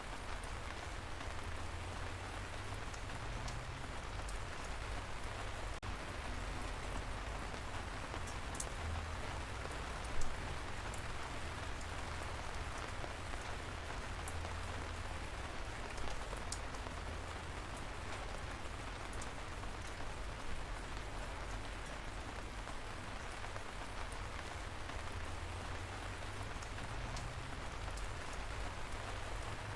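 Steady light rain falling, with scattered sharp ticks of single drops and one louder drop hit about ten seconds in.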